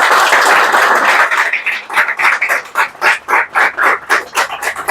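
Audio playing loudly through an Android smartphone's loudspeaker, which works again now that the ringer IC has been replaced. It is thin, with little bass: a noisy stretch for about a second and a half, then a fast, regular run of pulses about five a second.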